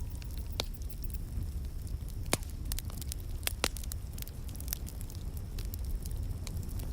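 Wood fire in a fireplace crackling, with scattered sharp pops over a steady low rumble. A louder pop comes a little over two seconds in, and two more close together about a second later.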